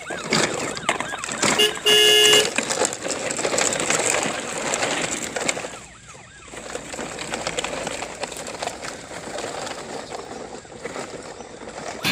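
Toy police car siren wailing in quick rising-and-falling sweeps, with one loud horn honk about two seconds in. A steady noisy rolling sound of the toy vehicles on a rough track lies underneath.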